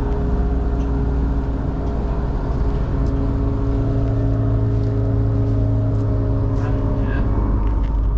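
An engine running steadily, its pitch stepping up about three seconds in and dropping again near the end.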